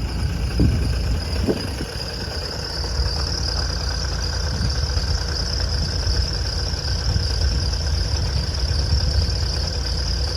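Steady low rumble of an idling engine, with a steady high hiss.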